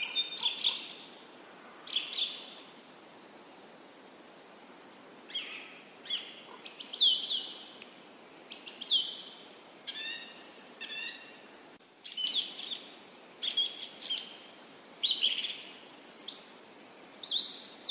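Birds chirping in short bouts of high calls, many of them sliding down in pitch, with a quiet gap a few seconds in.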